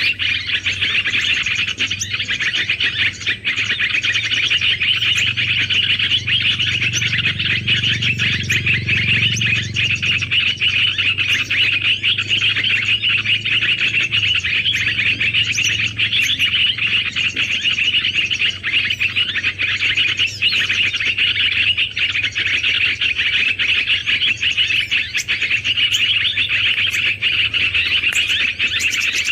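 Small birds chirping and twittering in a dense, unbroken chorus of rapid high calls, as at a bird-luring site.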